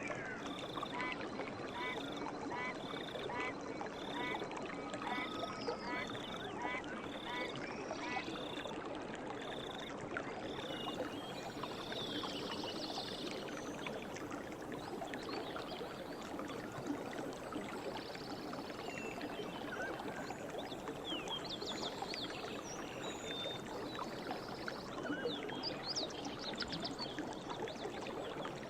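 River water flowing steadily, with birds singing over it. For the first ten seconds one bird repeats a short call about once a second; after that come scattered chirps and trills.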